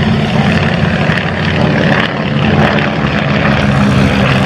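Avro Anson Mk I's twin Armstrong Siddeley Cheetah seven-cylinder radial engines and propellers running in flight, a loud, steady drone.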